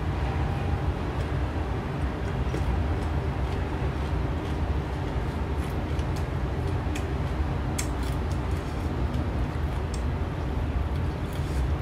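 Eating crisp young mango and cucumber dipped in chili sauce: a handful of short, sharp crunches and clicks of chewing and handling the fruit. Under them runs a steady low rumble of background noise.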